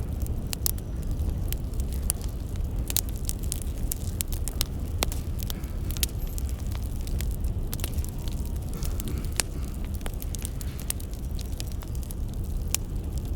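Firewood burning and crackling: a steady low rumble of flames with frequent, irregular sharp pops and snaps.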